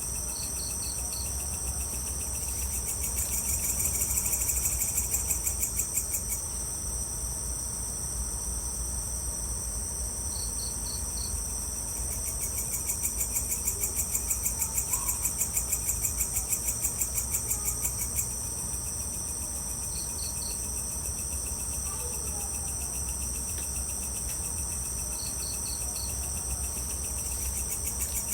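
Evening chorus of crickets and other insects: a steady high-pitched trill, swelling twice into louder, rhythmically pulsing stretches. A short four-pulse chirp recurs four times, several seconds apart, over a faint steady low rumble.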